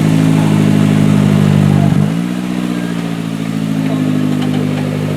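Modified off-road competition 4x4's engine running under throttle, held steady, then briefly dipping about two seconds in before settling at a slightly lower level.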